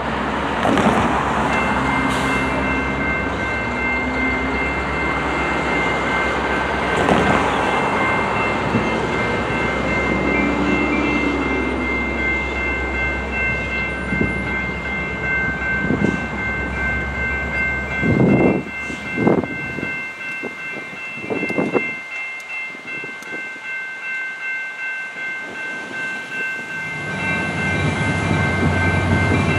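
CN diesel freight locomotive running as it approaches, with a low engine rumble that fades about two-thirds of the way through. Grade-crossing bells ring steadily throughout, and a few sharp clacks of wheels over rail joints come in the middle.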